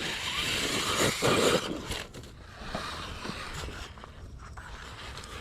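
Radio-controlled 1/10-scale rock crawler driving over boulders: electric motor and drivetrain whirring while the tyres scrabble and scrape on the rock. It is louder for the first second and a half, then quieter with a few scattered clicks.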